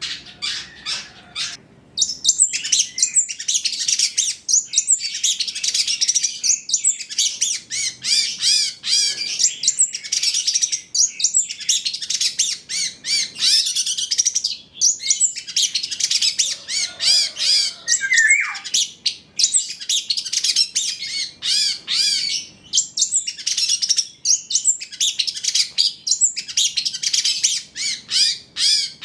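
Long-tailed shrike (cendet) singing a fast, dense, high-pitched twittering chatter of rapid notes. It is sparser at first and becomes near-continuous from about two seconds in.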